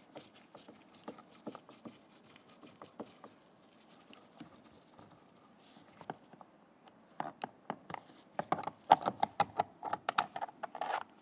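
Phillips screwdriver turning a screw out of the plastic door-handle recess of a truck's door panel: light scattered clicks, then from about seven seconds in a quick run of louder clicks and rattles as the screw is worked loose and lifted out.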